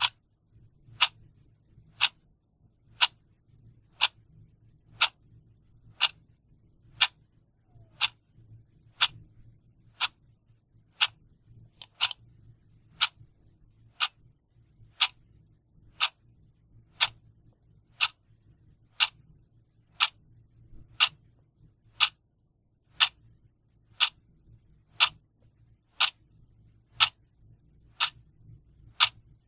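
Clock ticking steadily, one sharp tick a second, over a faint low hum.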